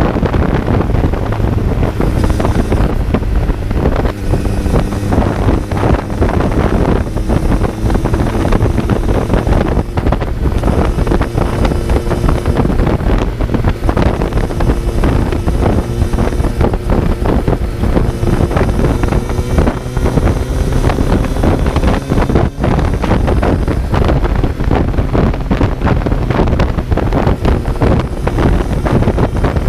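Kawasaki Z900's inline-four engine heard on board while riding, its note climbing slowly under steady throttle and then easing back about two-thirds of the way through, with heavy wind noise buffeting the microphone.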